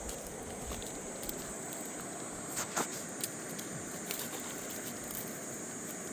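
Steady high-pitched insect chorus, with a few sharp clicks and knocks in the middle.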